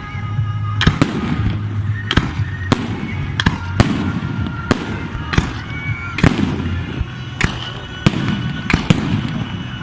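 Aerial fireworks exploding in a rapid series of sharp bangs, roughly one or two a second, with whistling trails between them over a background of crowd noise.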